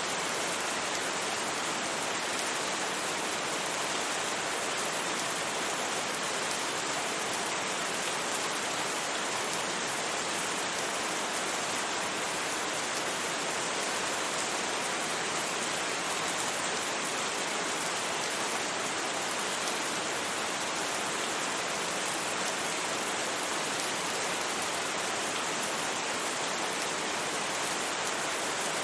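Steady, even rain noise with no separate drops or thunder, blended with white noise.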